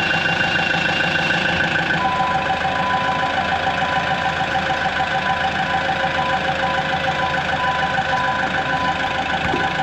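Dressta TD-8H crawler dozer's diesel engine running steadily while the machine is moved to bring the track together. A steady whine joins in about two seconds in.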